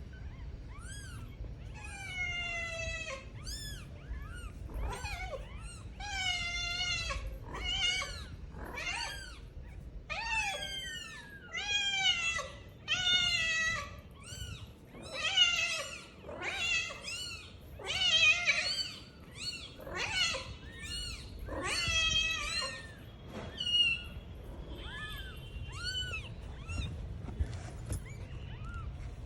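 Kittens meowing over and over, high-pitched calls often overlapping, thinning out near the end.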